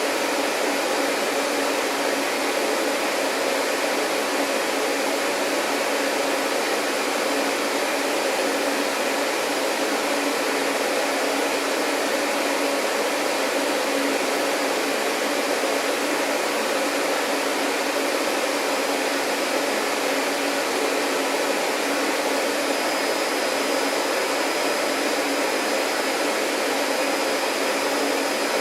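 Vacuum cleaner motor running steadily, a constant rushing whir with a low hum underneath; a faint thin high whine joins about three-quarters of the way through.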